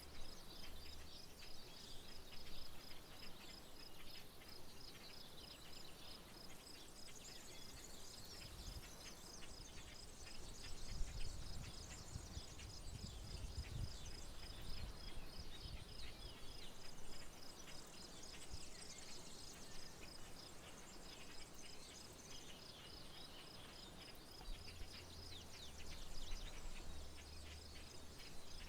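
Faint rural outdoor ambience: a steady, rapidly pulsing high insect trill runs underneath many short bird chirps and calls. A low rumble rises for a few seconds about eleven seconds in.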